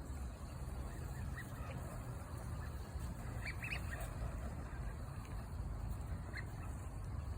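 Waterbirds giving a few short, faint calls, a cluster of them in the middle, over a steady low rumble.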